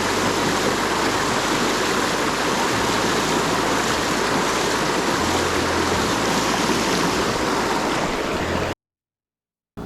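Steady rush of water pouring over a dam, cutting off suddenly near the end.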